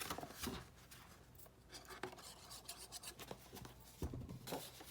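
Faint rubbing and rustling of cardstock being handled and pressed while its glued edges are worked, with soft knocks about half a second in and again near the end.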